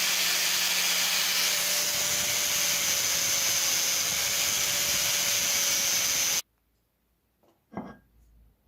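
A power tool runs steadily, working against a surface with a harsh scraping hiss, then cuts off abruptly about six seconds in. One light knock follows near the end.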